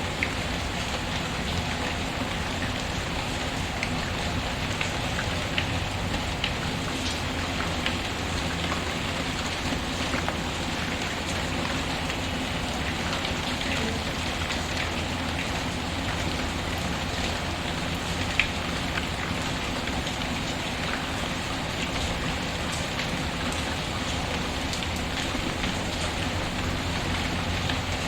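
Steady rain falling on a surface, with scattered sharp pops through it, one louder than the rest about two-thirds of the way in.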